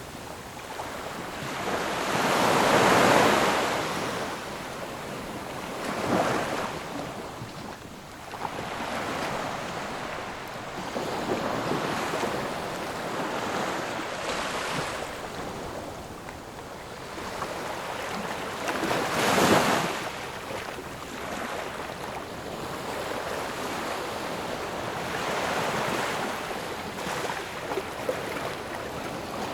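Ocean waves breaking and washing on a shore, a steady rushing surf that swells with each wave; the loudest breakers come about 3 seconds in and again about two-thirds of the way through.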